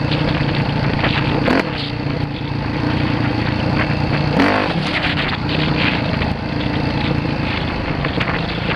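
Dirt bike engine running steadily, with a short rising rev about four and a half seconds in.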